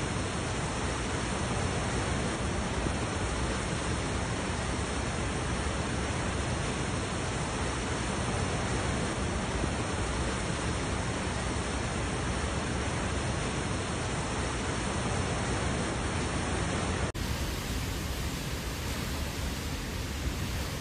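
Hurricane-force wind, a steady, unbroken rushing noise. About seventeen seconds in it cuts abruptly to a similar rushing noise from another recording.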